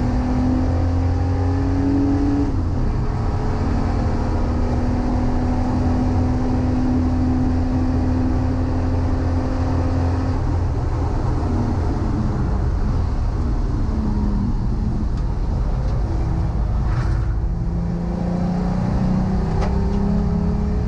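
VW Corrado VR6 race car engine running hard on track. The revs climb steadily and then drop back at gear changes, with periods of steady running between, over a constant low rumble.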